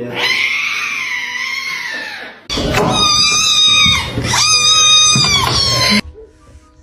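Cat yowling: a long, high wail, then after a short break a second, louder drawn-out yowl that cuts off about six seconds in.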